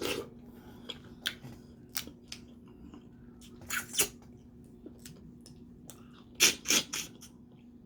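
Crawfish shells being cracked and peeled and the meat eaten close to the microphone: scattered small clicks and crunches, with a louder burst about halfway through and two more near the end, over a faint steady hum.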